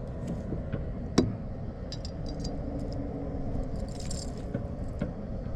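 Small clicks and taps of hands working a fishing hook out of a bird's wing, with one sharper click about a second in, over a low steady rumble.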